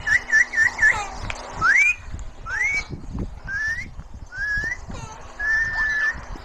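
A parrot whistling: a quick run of short whistled notes, then four separate rising whistles and one long level whistle near the end.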